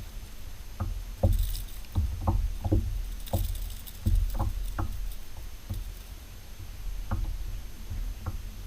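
Kayak being paddled: paddle blades dipping into the water with small splashes and light knocks against the hull, irregular, about one or two a second, over a steady low rumble.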